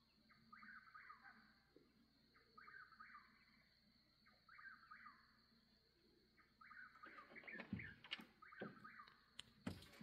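Faint bird calling, the same short call repeated about every two seconds, over a steady high-pitched drone. From about seven seconds in, several sharp clicks and knocks, the loudest sounds here.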